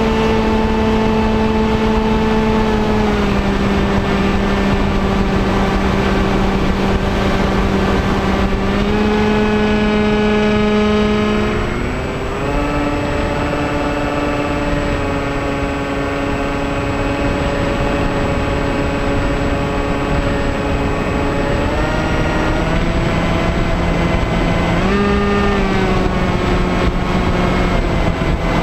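Bixler 2 RC foam plane's electric motor and propeller whining over a steady rush of wind on the onboard camera. The pitch shifts up and down several times, falling lower about twelve seconds in and rising again near the end.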